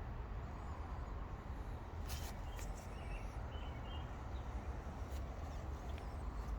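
Outdoor ambience: a steady low rumble, like wind on the microphone, with faint short bird chirps and a few sharp clicks about two seconds in and again near five seconds.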